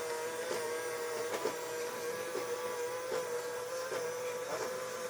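Small robot vacuum cleaner running: a steady motor whine with faint, irregular ticks over it.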